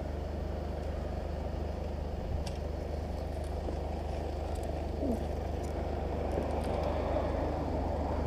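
Motorcycle engine idling with a steady, even low rumble, with a few faint clicks over it.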